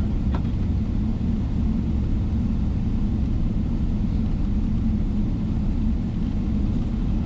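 Steady low rumble inside the cabin of a Boeing 777-300ER on the ground before take-off, its engines running. A short click sounds just after the start.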